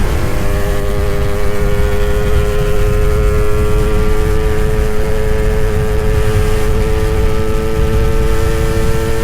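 Two-stroke motorcycle engine held at steady high revs while riding, its pitch creeping slightly upward, over a heavy low rumble.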